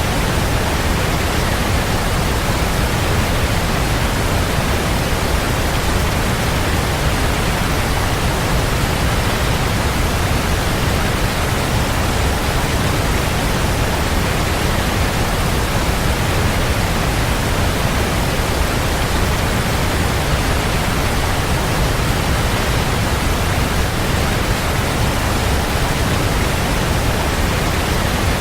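Waterfall: a steady, dense rush of falling water with a deep low rumble under an even hiss.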